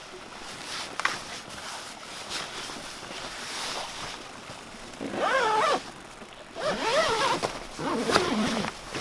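Steady outdoor background noise with a single click about a second in, then three wavering animal calls in the second half.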